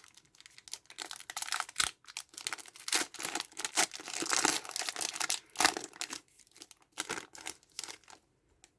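Foil wrapper of a Pokémon TCG Destined Rivals booster pack being torn open and crinkled by hand, a run of irregular rustles and crackles that dies away near the end.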